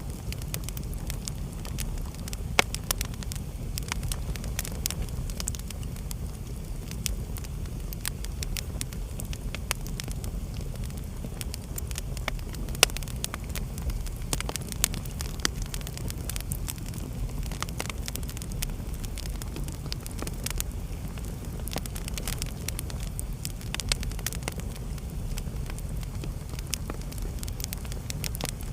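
Wood fire burning in a fireplace: a steady low rumble of flame with irregular sharp crackles and pops from the burning logs, a few louder pops standing out.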